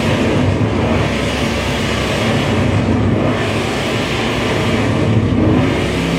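Loud, dense distorted electronic noise from a live noise-music set, with a low drone underneath and the hiss on top swelling and dipping about every two and a half seconds.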